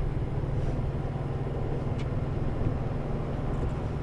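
Mercedes-Benz Antos 1824 lorry's six-cylinder diesel engine running at low revs while manoeuvring slowly, a steady low rumble heard from inside the cab. There is one faint click about two seconds in.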